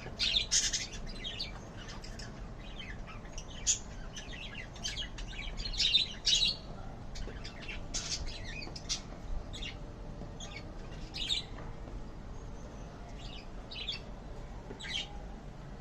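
Pet birds chirping in many short, scattered high calls, loudest near the start and around six seconds in.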